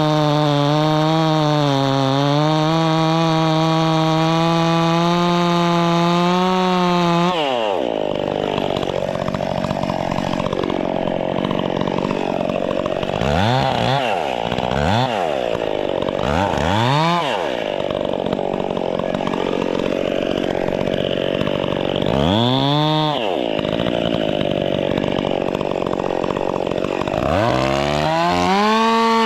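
Two-stroke chainsaw running at high revs, then dropping sharply about seven seconds in and revved in several short bursts before climbing back to a steady high speed near the end.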